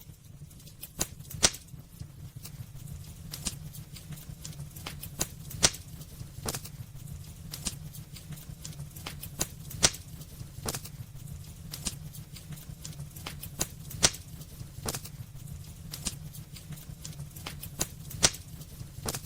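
Wood fire burning in a fireplace: a low steady rumble of the flames with irregular sharp crackles and pops from the burning wood, a few louder pops standing out.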